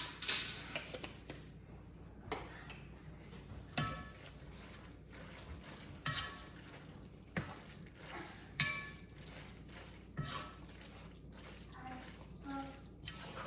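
A utensil stirring spaghetti and sauce in a pot: short clinks and scrapes against the pot every second or two, some ringing briefly, with wet squelching sounds.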